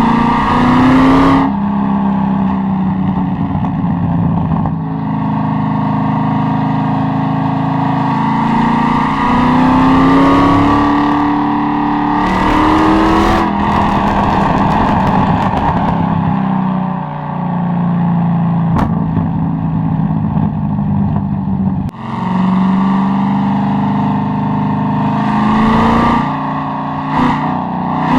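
Corvette C6 Z06's 7.0-litre LS7 V8 pulling hard. The revs climb several times and drop back with each shift. Two sharp exhaust pops come about a second apart, in the middle.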